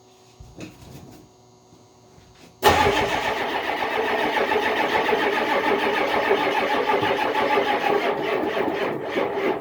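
Diesel truck engine being cranked over by its starter on a cold start, beginning suddenly about three seconds in and turning over with a steady, even rhythm without catching, helped by a battery charger on its high-power boost setting.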